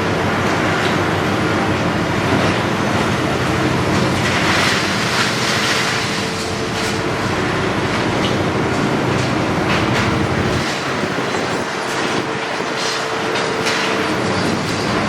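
Heavy demolition machinery breaking down a building: a diesel engine and a steady hydraulic whine under continuous crunching and clattering of concrete and debris. The engine's low rumble drops back about ten seconds in.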